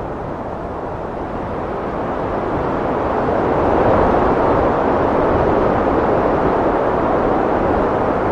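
Heavy wind blowing in a continuous rush that swells about halfway in and then holds steady.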